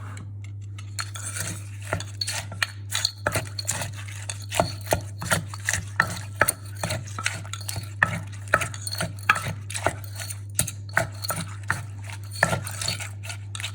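Irregular wooden knocks and scrapes, several a second: a pestle and spoon pounding and mixing som tum ingredients in a mortar. A steady low hum runs underneath.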